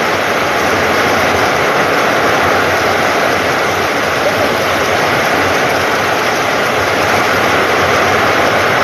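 Heavy rain pouring down in a steady, loud, even hiss, falling on a corrugated shed roof and into flooded ground.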